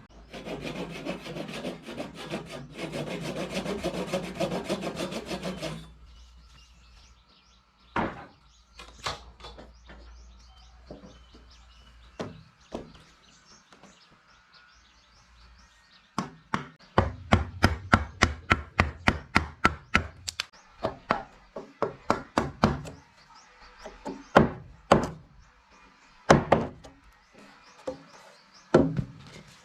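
Hand work on timber: about six seconds of steady, rapid rasping like a saw cutting wood, then sharp knocks on wood, with a fast run of several strikes a second about halfway through.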